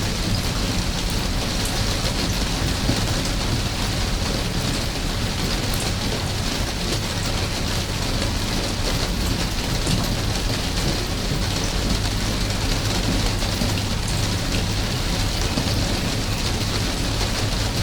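Steady rain falling, an even hiss with the odd sharper drop, over a low steady rumble.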